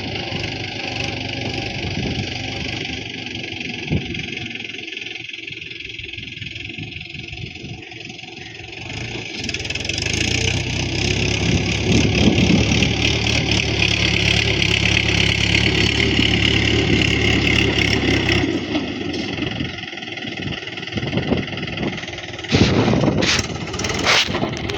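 Tractor engine running under load while pulling a harrow across a field. It grows louder from about ten seconds in, as it draws near, and falls back after about eighteen seconds. A few sharp knocks come near the end.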